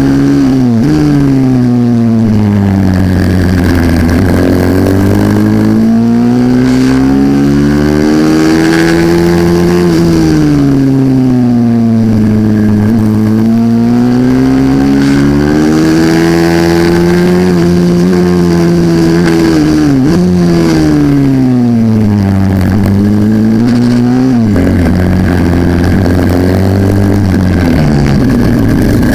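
Racing minibike (pit bike) engine, loud and close, revving hard through a lap. Its pitch climbs slowly as the bike accelerates and drops sharply several times as the rider shuts off for corners.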